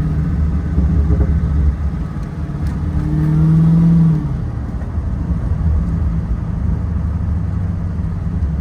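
Car engine running while the car is driven, a steady low rumble; about three seconds in the engine note swells as it is revved up, then eases off a second later.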